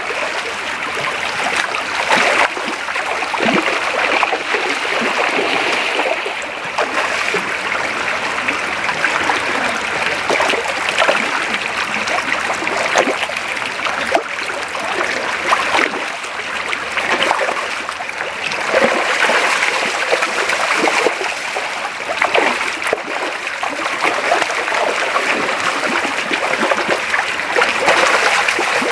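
Shallow creek flowing steadily over its bed, with frequent small splashes breaking through the rush of water.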